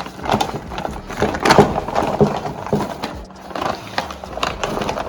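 A package being opened by hand: irregular rustling, tearing and knocking of the packaging.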